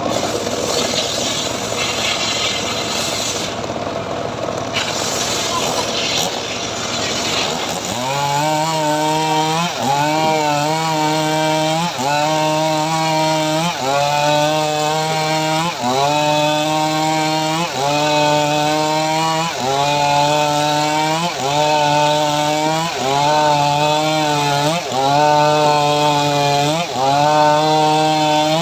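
A homemade srekel sawmill rig cutting mahogany: for the first several seconds a dense, noisy cutting sound. Then the machine settles into a steady pitched drone that dips and recovers about every second and a half to two seconds.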